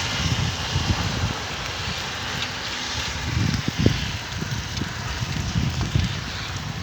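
Heavy rain falling as a steady hiss, with wind buffeting the microphone in irregular low gusts.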